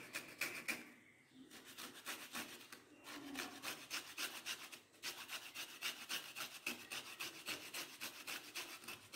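Dried coconut being grated finely by hand: faint, quick, even rasping strokes, several a second, in runs with short breaks.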